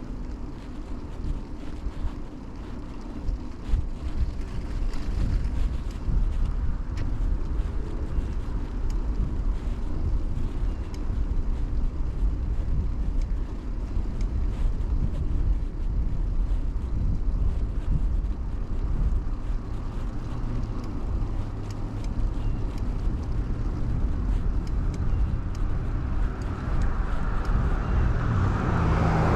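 Steady low rumble of a bicycle riding on pavement, tyre roll and wind on a chest-mounted action camera, with scattered faint clicks and rattles. Near the end a car comes up and passes close by, its noise rising to the loudest point.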